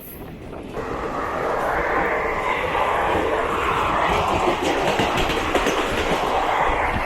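Train running on rails, heard from on board: a loud rushing rattle with fast wheel clicks that swells sharply about a second in and eases near the end.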